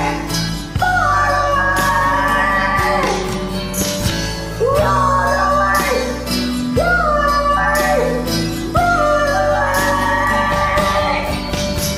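Music from an acoustic rock ballad's karaoke backing track, with a voice holding long, sliding notes without words over it, a new phrase about every two seconds.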